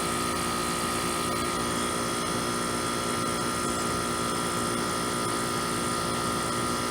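Trane central air conditioner's outdoor condensing unit running steadily, compressor and condenser fan together, with a steady high tone over the hum. The compressor is running again at steady state after its capacitor was changed.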